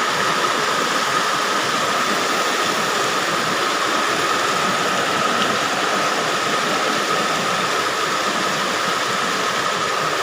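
Heavy rain pouring down in a steady, even hiss, with a faint steady tone running underneath.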